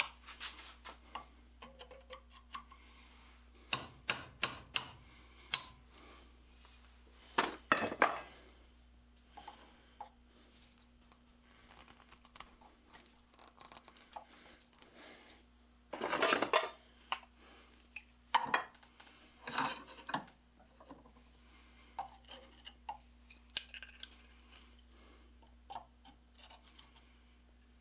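Irregular metal clinks, taps and clanks of hand tools working the rusted steel pivot bolt of a cast iron forge's ash-pit gate, with a brief rattling clatter about 8 seconds in and a longer one about halfway through.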